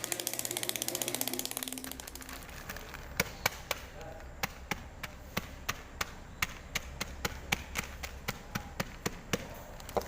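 A dense, fast rattle for the first two seconds, then a run of sharp, irregular taps, about two or three a second.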